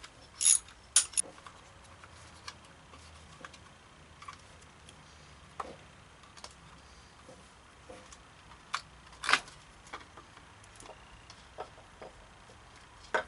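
Ratchet wrench clicking as a 10 mm bolt is worked loose, then scattered metallic clicks and knocks of tool and part handling as the rear timing cover comes off a Honda Civic 1.7L engine. A few quick clicks come in the first second and a half, then isolated ones, the loudest about nine seconds in.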